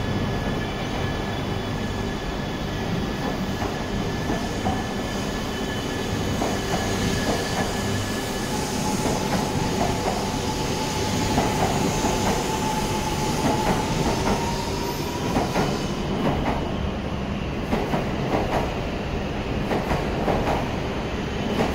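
Shinkansen train running slowly along the platform. Its wheels click over rail joints from a few seconds in, and a thin whine rises slightly in pitch midway.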